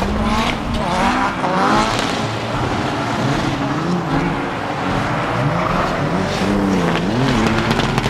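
A race car's engine revving, its pitch rising and falling again and again under throttle, as on a car being driven hard or drifted on a circuit.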